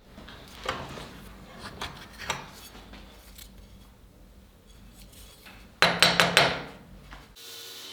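Metal being handled and struck during hand-tool work: scattered knocks and clinks, then four quick hard taps about six seconds in. Near the end it cuts abruptly to a steady hiss.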